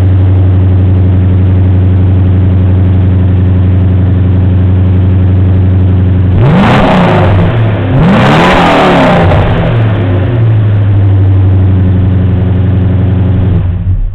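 Mercedes-Benz 500 SE V8 exhaust idling steadily, blipped twice in quick succession about halfway through, each rev rising and falling back, then settling to idle again before the sound stops abruptly at the very end.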